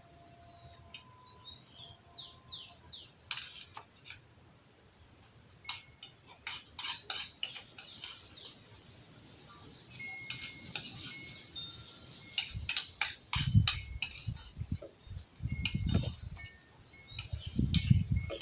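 Metal cutlery clinking irregularly against dishes, many sharp clicks spread over the whole stretch, with birds chirping in the first few seconds and a few low muffled thumps near the end.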